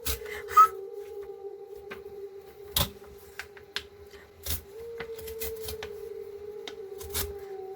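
Flatbed scanner running a scan, a steady motor hum with a slight shift in pitch about five seconds in, with scattered clicks and knocks from handling the book on the glass.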